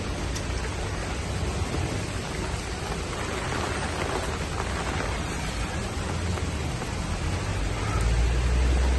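Heavy rain falling, a steady hiss. A deep low rumble swells up near the end.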